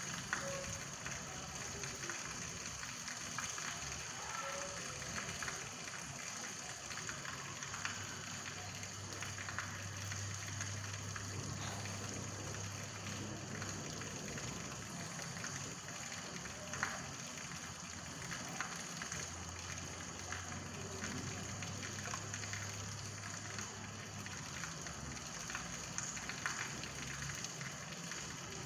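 Rain falling steadily, with scattered individual drops ticking on a surface. A low hum sits under it through the middle.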